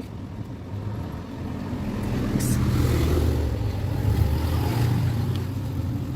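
A low, steady mechanical hum that swells over the first three seconds, then holds at a fairly even level with a few faint clicks.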